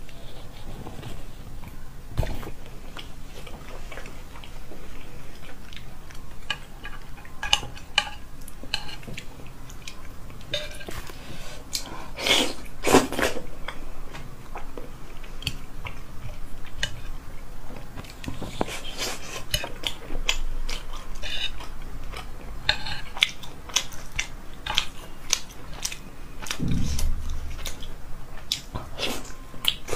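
Close-up chewing and biting of soft, fatty braised pork: wet, sticky mouth sounds and smacks in many short clicks, louder for a moment about twelve seconds in.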